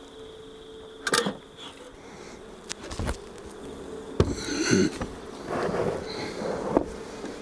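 Honeybees humming steadily around hives being handled, with a few sharp knocks of wooden hive boxes about a second, three seconds and four seconds in, and a short grunt just after the last knock.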